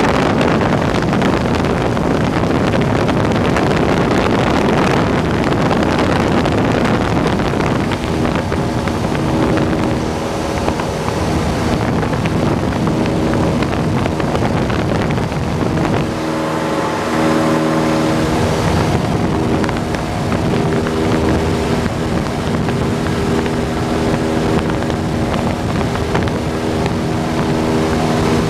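Cessna 172's single piston engine and propeller running steadily in flight, with heavy wind rush. From about eight seconds in, a set of steady engine tones stands out above the noise.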